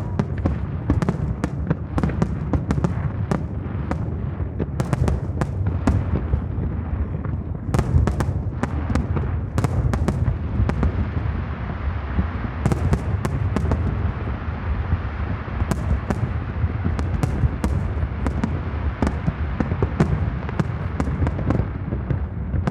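Aerial fireworks display: a rapid, irregular barrage of sharp cracks and bangs over a continuous low rumble of shell bursts echoing.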